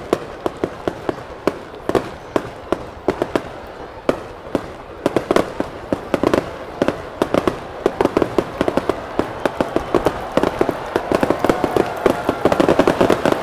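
Aerial firework shells bursting overhead: a run of sharp bangs and crackles, spaced out at first, then coming faster and denser from about halfway through.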